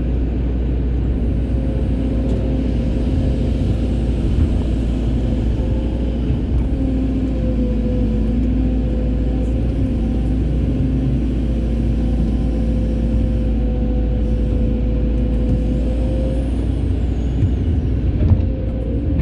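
Excavator's diesel engine running steadily, with a steady whine over a low rumble.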